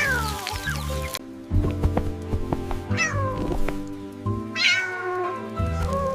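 Cat meowing over background music: three meows that each fall in pitch, one at the start, one about three seconds in and one about four and a half seconds in.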